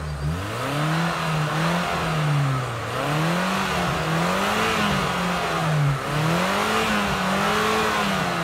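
Daihatsu Feroza's engine revving up and down over and over, about once a second, as the 4x4 tries to work its way out of deep snow.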